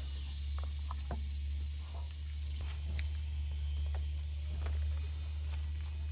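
Insects chirring steadily over a low, even rumble, with a few faint clicks and rustles.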